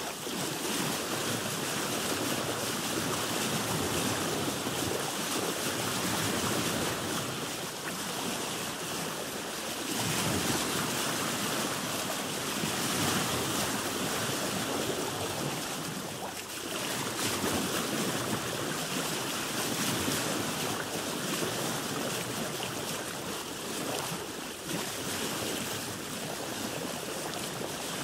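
Seawater washing and sloshing against a boat's hull, a continuous rushing that swells and eases every few seconds.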